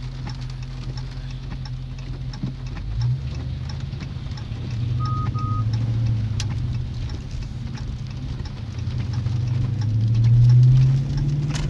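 Car engine heard from inside the cabin while driving, a steady low hum that swells several times as the car accelerates, loudest near the end. A short double electronic beep sounds about five seconds in.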